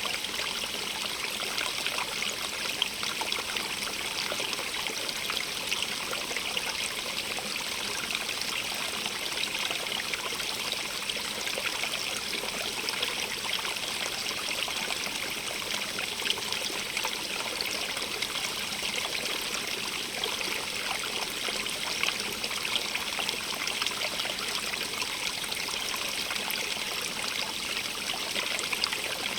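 Stream of running water, a steady babbling and trickling with fine splashes and no letup.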